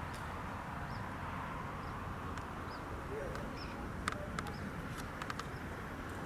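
Outdoor ambience: faint, short, high bird chirps repeating about once a second over a steady low rumble. A few sharp clicks come about four to five seconds in.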